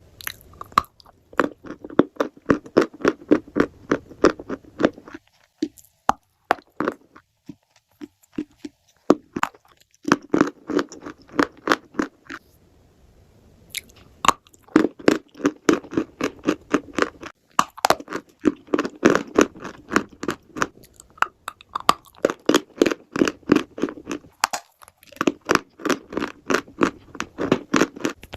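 Someone chewing chalk and clay: rapid crunches in runs of several seconds, with brief pauses between bites.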